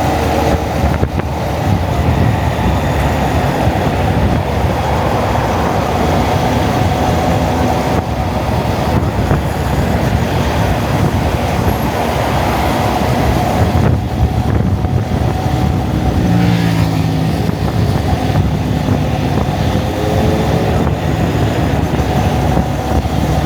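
Honda Monkey motorcycle's single-cylinder engine running at road speed, with heavy wind rushing over the microphone. A little past the middle the engine pitch climbs in steps, and it rises again a few seconds later.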